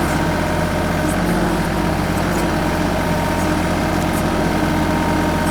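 The TYM 2515H compact tractor's diesel engine running steadily at a constant speed.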